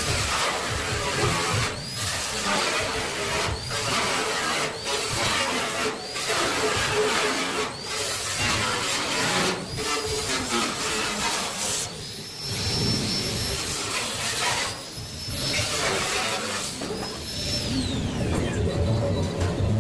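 Handheld electric power tool cutting stainless steel sheet. It is run in short bursts about every one to two seconds, each starting with a brief rising whine, then in two longer runs with a steady high whine. The tool winds down near the end.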